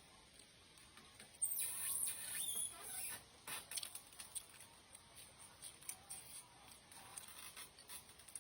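Close-miked eating sounds: a loud hissy slurp about a second and a half in, then wet chewing with many small clicks and smacks.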